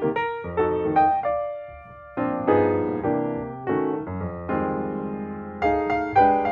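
Background piano music: a run of struck notes, each dying away, with a short lull about two seconds in.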